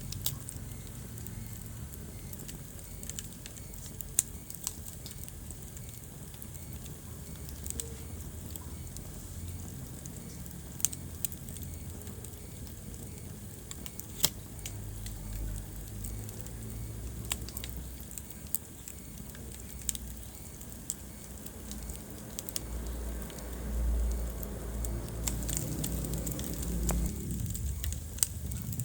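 Wood fire burning in a fireplace: scattered sharp crackles and pops over a low, steady rumble of the flames, which swells a little in the second half.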